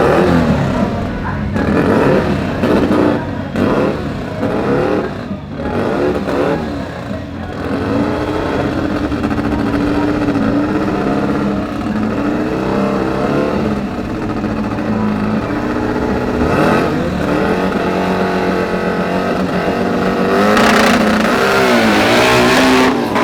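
Race-car engines revving in repeated quick blips, then held at a steady high note. The pitch climbs and the engines run loudest near the end.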